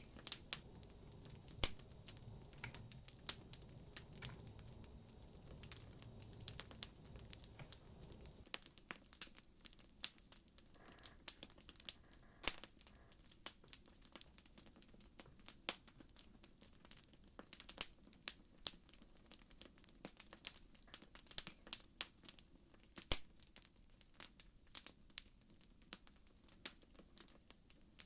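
Wood fire crackling: faint, irregular sharp pops and snaps, with a low rumble underneath that drops away about eight seconds in.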